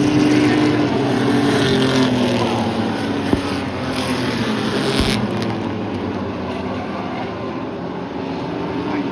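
Several race trucks' engines running at speed around a short oval, their pitch rising and falling as they pass, with a single sharp crack a little over three seconds in.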